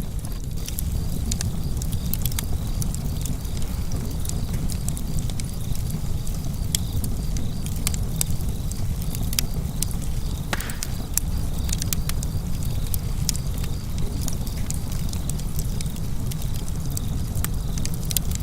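Wood fire burning in a fireplace: a steady low rumble of the flames with irregular sharp crackles and pops, one louder snap about ten seconds in.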